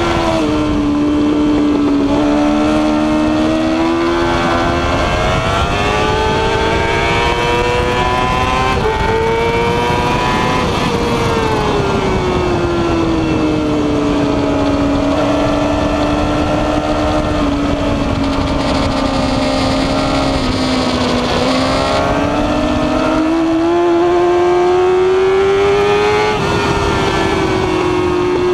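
Yamaha R6 sport bike's inline-four engine at high revs on track, heard from on board: the engine note climbs through the gears with pitch steps at the shifts, sinks for a long stretch as the bike slows for corners, then climbs again. A steady wind rush runs under it.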